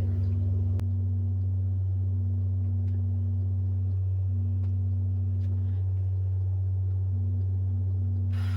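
A steady low hum with a weaker higher tone over it, and a few faint ticks. A hiss comes in near the end.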